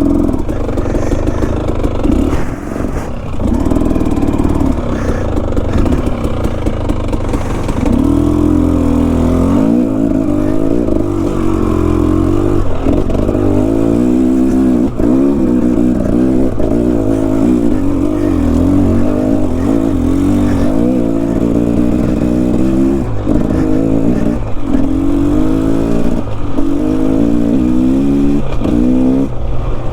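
Enduro dirt bike engine on a technical trail, the throttle opened and closed over and over so the engine note keeps rising and falling in short revs. It is steadier in the first few seconds and becomes a rapid series of rev-ups from about eight seconds in.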